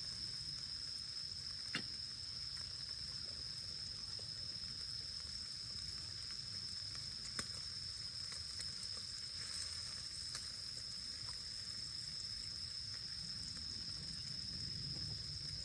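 Insects trilling on one steady high note, over a low rumbling haze, with two sharp crackles, about two and seven seconds in, from the wood campfire.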